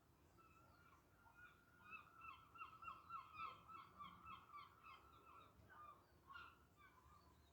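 Seagulls calling faintly: a fast run of repeated yelping calls that builds about two seconds in and trails off near the end.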